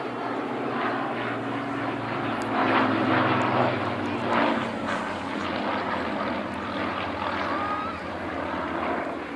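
Vintage piston-engined Second World War fighter flying past with a steady propeller-engine drone. It is loudest around three to four and a half seconds in and fades near the end.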